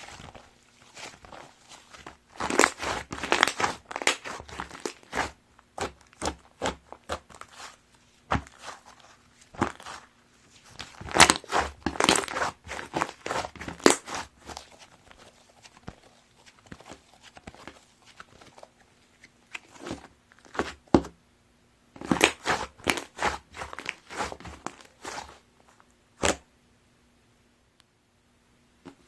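Hands squishing, pressing and stretching a soft butter slime, giving sticky crackling and popping clicks in three bursts with quieter, scattered clicks between them.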